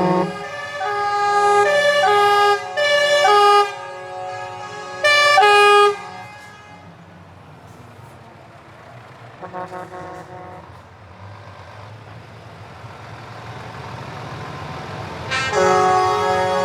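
Show trucks' air horns sounding: a run of horn notes at changing pitch over the first six seconds, a short faint blast near ten seconds, then a loud long blast from about fifteen seconds, over truck engines running.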